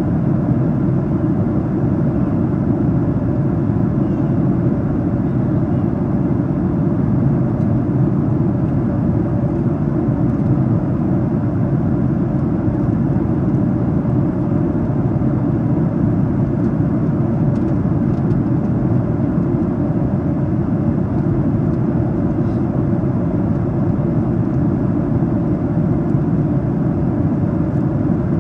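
Steady, even cabin drone of a Boeing 737-800 in cruise flight, heard from inside the passenger cabin: a constant low rushing noise from its CFM56 engines and the air streaming past the fuselage.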